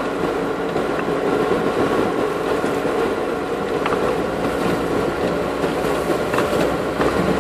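Off-road 4x4's engine and drivetrain running steadily, heard from inside the cabin as it drives slowly through mud in rain, with a steady whine over the rumble and a few light ticks.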